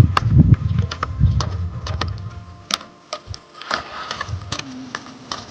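A run of irregular sharp clicks and taps, several a second, with a low rumble under them for about the first two seconds.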